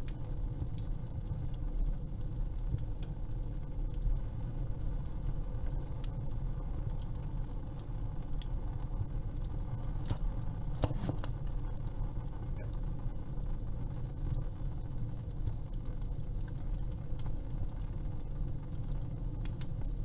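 Wood fire crackling: many small, sharp, irregular pops over a low, steady rumble of the flames, with a quick cluster of pops about eleven seconds in.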